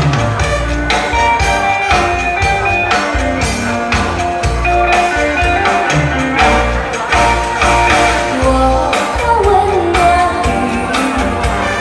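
A singer performing an upbeat pop song over a backing track with a steady beat.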